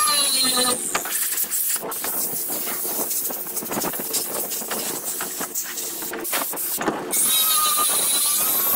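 Power grinder at work. Its motor whine wavers in pitch, and from about a second in to about seven seconds it gives way to a rough, scratchy grinding noise with many small crackles, as the disc bites into the material. The whine comes back near the end.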